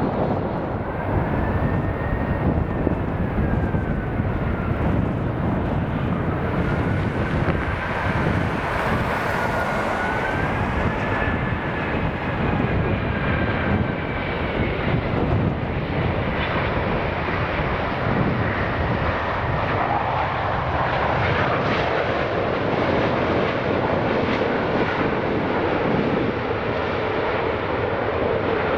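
Wide-body jet airliner close by on arrival, its engines running loud and steady, with a whine that rises and falls in pitch during the first half.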